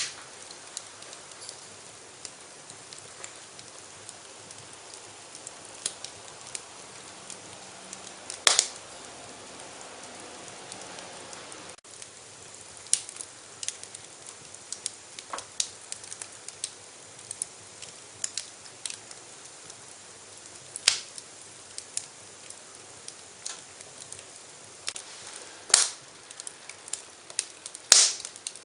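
Fireplace fire crackling: a soft steady hiss with irregular sharp pops and snaps, a few of them louder.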